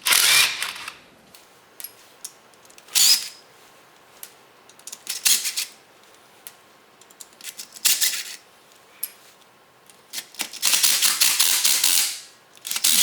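Hand ratchet wrench clicking in five short bursts of rapid ticks, the last one longer, as bolts on the axle and spring hardware are worked.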